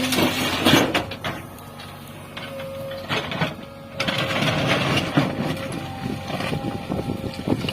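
JCB 3DX backhoe loader working with its engine running and a steady whine. Clanks and knocks come through it, with louder rushing surges about a second in and again about four seconds in.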